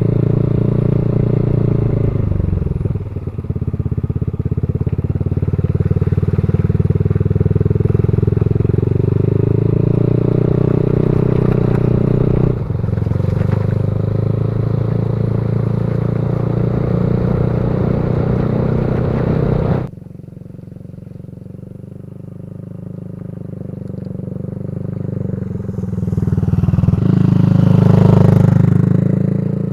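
Motorcycle engine running at a steady speed, heard close up. About two-thirds through it drops abruptly quieter, then grows louder again near the end.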